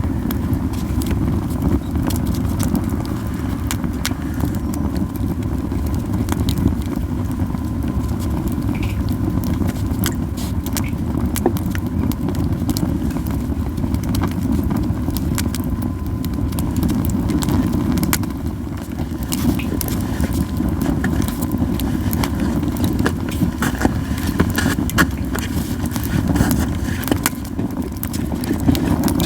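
Japanese yew wood burning in a campfire, crackling with frequent sharp pops over a steady low rushing sound.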